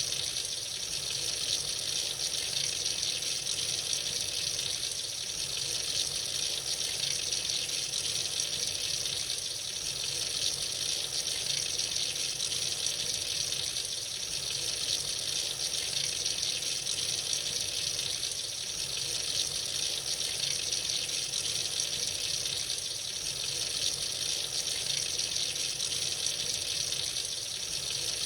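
Water running steadily from a tap into a sink, a constant rushing hiss.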